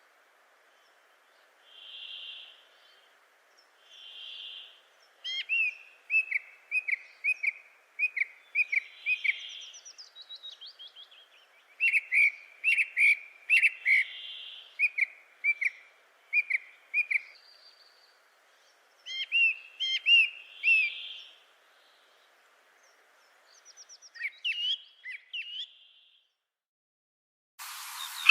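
Birds calling: quick runs of short, sharp chirps, with softer whistled notes between them. A louder burst of a different sound cuts in suddenly near the end.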